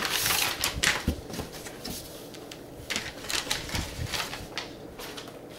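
Handling of an unboxed balance bike's parts and packaging: a loud rustle in the first half second, then scattered light clicks and knocks.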